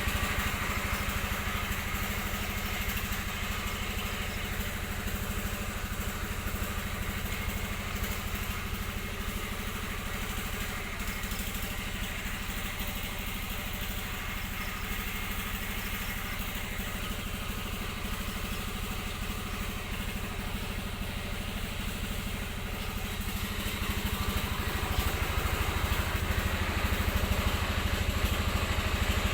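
A small engine running steadily with a low, even hum, growing somewhat louder near the end.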